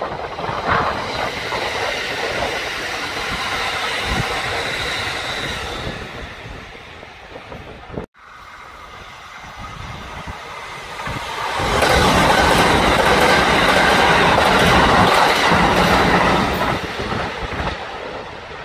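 Kintetsu electric trains passing at speed: the first fading away, then after a sudden cut a second train that swells to its loudest near the middle and fades again.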